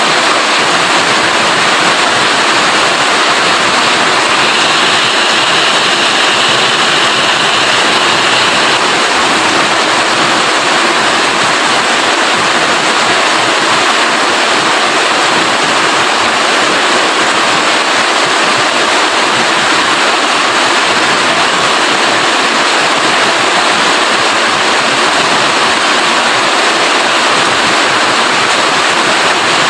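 Steady, heavy rainfall, a loud even hiss of rain with no gaps, a little brighter for a few seconds early on.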